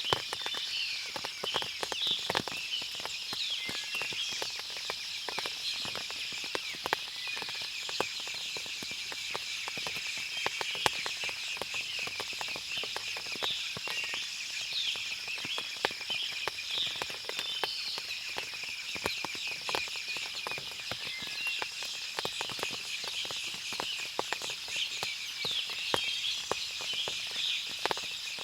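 Forest after rain: scattered drips tapping and ticking irregularly throughout, birds chirping briefly here and there, over a steady high-pitched hiss.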